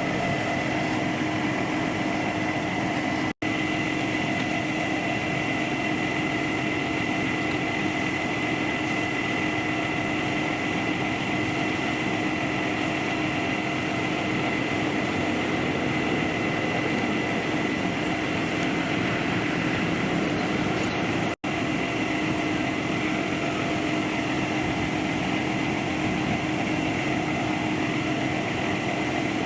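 A steady mechanical drone, an engine or machine running at constant speed with a fixed hum and whine and no change in pitch, cut off for an instant twice.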